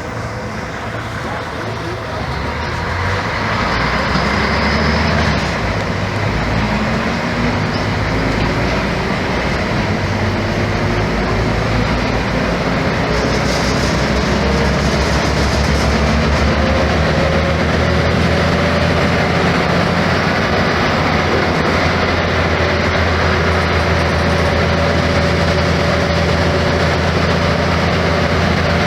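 Mercedes-Benz O-500MA articulated bus's Bluetec 5 diesel engine pulling through its Voith automatic gearbox. It gets louder about 3 s in, climbs in pitch as the bus gathers speed, then holds steady at cruise.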